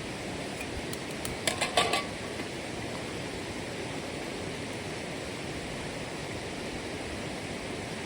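Steady rushing noise of running water, with a quick run of sharp clicks about a second and a half in.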